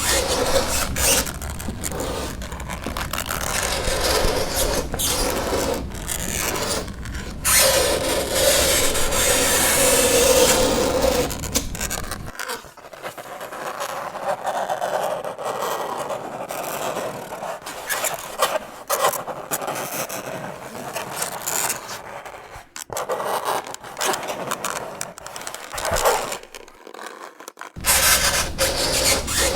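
Fingernails scraping across a chalkboard in long, grating strokes, with a squealing tone in a stroke about eight to eleven seconds in and brief breaks between strokes near the end.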